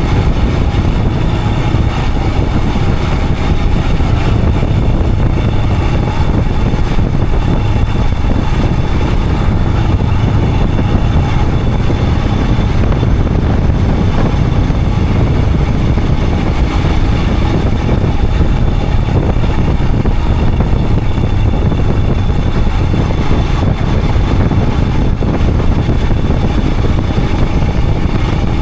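Royal Enfield Himalayan 411's single-cylinder engine running steadily while the motorcycle is ridden, with no change in engine speed.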